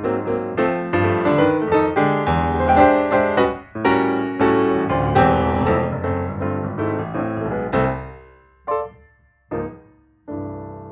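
Background piano music, a run of struck notes that thins out near the end to a few single notes.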